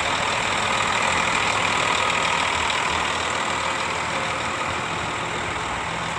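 Scania K410IB coach idling, with its air-conditioning blower running: a steady airy hiss over a low, even engine hum.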